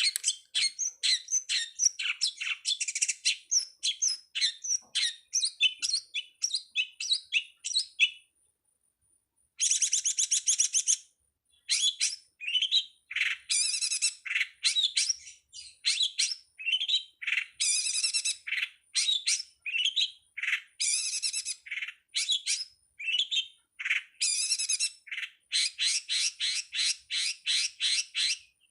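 Long-tailed shrike song: a fast, unbroken run of varied chattering, squeaky and buzzy notes, several a second, with a pause of about a second near a third of the way through.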